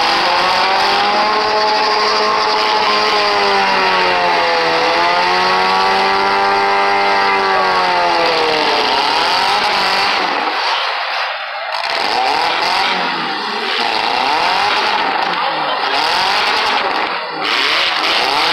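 Four- and six-cylinder demolition derby cars running hard. Over the first several seconds one engine at high revs dips and rises in pitch, then it gives way to a jumble of several engines revving at once.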